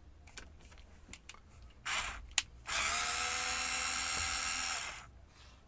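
Small cordless electric screwdriver running steadily for about two seconds, backing a screw out of a laptop's plastic case, after a brief scrape and click as the bit goes onto the screw.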